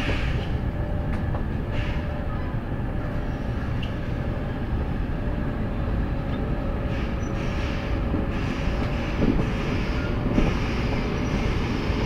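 A train's own running noise, heard from on board as it rolls into the station: a steady low rumble of wheels on rail, with a few scattered knocks.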